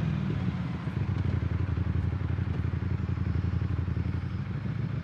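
Ducati Streetfighter V4 S motorcycle's V4 engine idling at a standstill, a steady low rumble with a fast, uneven pulsing beat.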